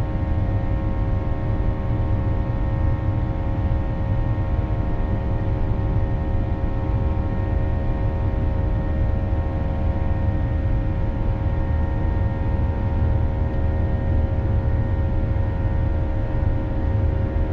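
Steady cabin noise of a Boeing 737-800 in flight: a constant low rumble with a hum of several fixed tones from its CFM56-7B engines.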